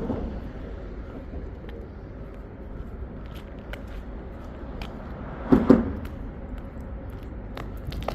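Steady low rumble of outdoor city noise, with scattered small clicks and one short louder sound about five and a half seconds in.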